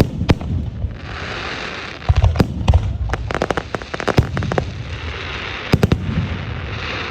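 Fireworks display: a sharp bang at the start, then a steady crackling hiss laced with many rapid pops and deep booms, thickest between about two and four and a half seconds in, with another cluster of pops near six seconds.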